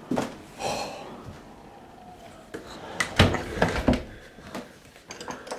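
A sharp knock, then a short breathy gasp, then a cluster of loud thumps and knocks about three seconds in, in a small room.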